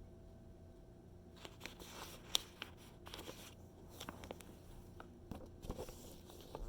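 Magazine pages being handled and turned: paper rustling and crinkling in short bursts, with one sharp snap of paper about two seconds in and more rustling near the end.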